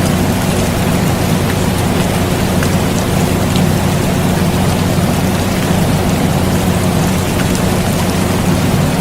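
Steady air conditioner hum, a low drone with a few held tones, mixed with continuous rain falling on a surface, with scattered drops ticking through it.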